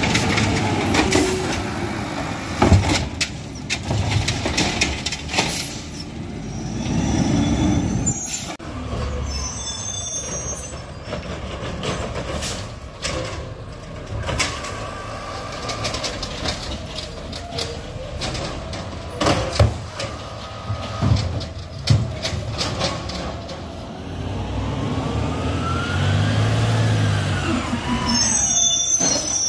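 Garbage truck at work: its diesel engine runs throughout with many sharp clanks and knocks. Late on, a whine rises and then falls.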